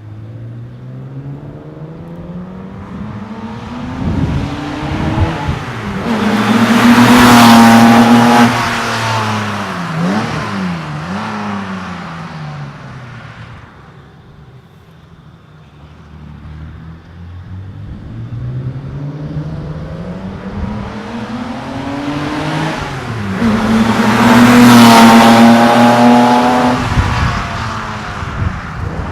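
1971 Porsche 911T's 2.2-litre air-cooled flat-six, breathing through a Merge Comp 904 header and muffler exhaust, accelerating past twice with revs climbing. Each pass is loudest about 7 and 25 seconds in, then fades away.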